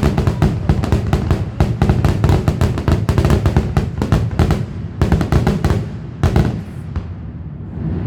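Fireworks display going off in a rapid barrage: many sharp bangs and crackles, several a second, over a continuous low booming rumble, thinning out near the end.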